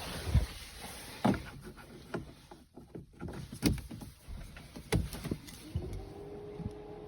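Scattered clicks and knocks of handling around a parked Mercedes-Benz SL 65 AMG, with the engine not yet running, then a steady electric hum that comes in a little before the end.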